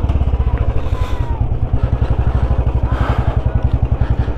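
Motorcycle engine running at low revs as the bike rolls slowly, a rapid, even low thudding pulse.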